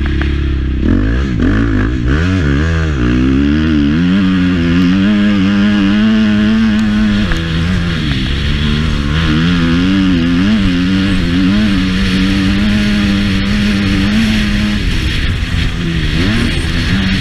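Motocross bike engine running hard, its pitch swinging up and down quickly for the first few seconds as the throttle opens and closes, then holding fairly steady with brief dips.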